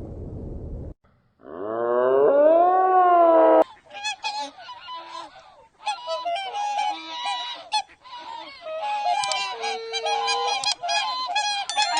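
A flock of geese honking in a rapid jumble of short, overlapping calls, preceded by one longer call that rises and then falls in pitch. A low noisy sound cuts off about a second in.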